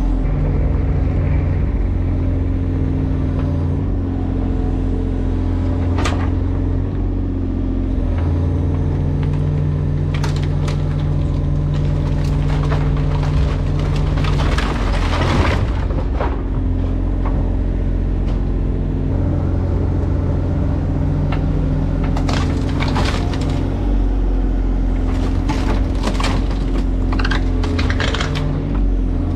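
An engine running steadily, with scattered cracks and knocks of breaking material over it, thickest about halfway through and again near the end.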